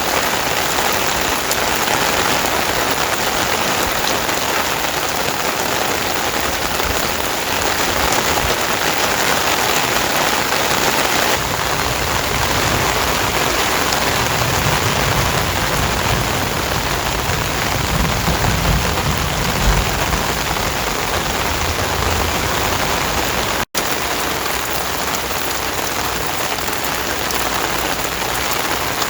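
Heavy rain falling steadily, with a low rumble swelling in about halfway through and fading a few seconds later.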